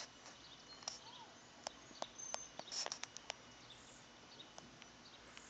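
Quiet outdoor background with a few faint, brief bird chirps and scattered small clicks.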